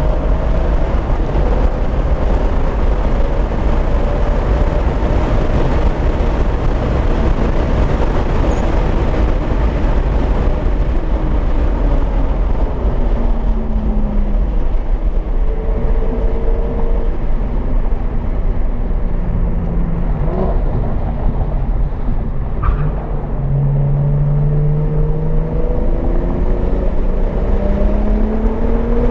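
Single-turbo BMW 335i's turbocharged inline-six driven hard on a race track, heard from inside the car over heavy wind and road noise. The engine note climbs as it accelerates and drops several times as it slows for corners, with a sharp click about two-thirds of the way through.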